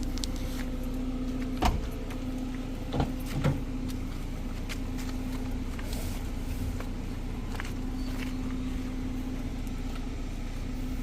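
A motor running steadily with a low hum, with three short knocks in the first few seconds.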